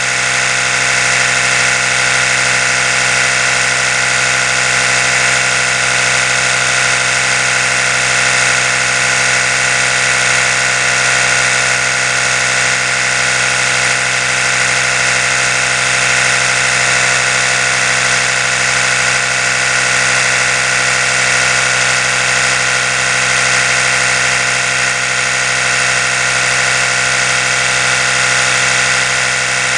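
Oral-B electric toothbrush motor running continuously, a steady high buzz that does not change.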